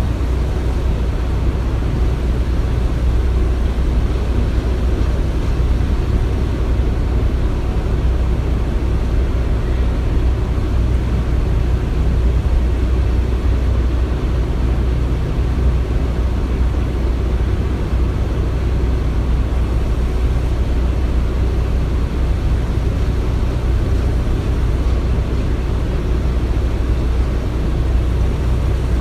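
Construction-site ambience: a steady low rumble of heavy machinery running, even throughout with no distinct knocks or bangs.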